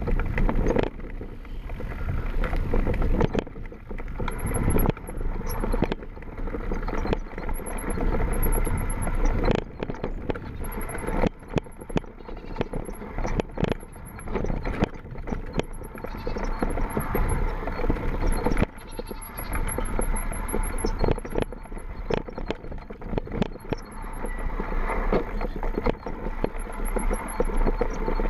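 Mountain bike riding down a rough trail, heard from a camera mounted on the bike: tyre and wind rumble with frequent irregular knocks and rattles from the frame and chain over bumps.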